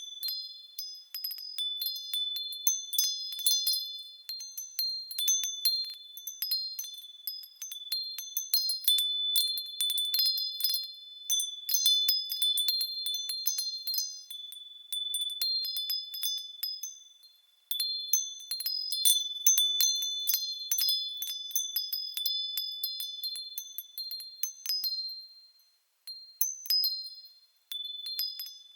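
Japanese fūrin wind chimes ringing in the wind in irregular clusters of high, clear tones. The ringing dies away briefly a little past halfway and falls almost silent for a couple of seconds near the end.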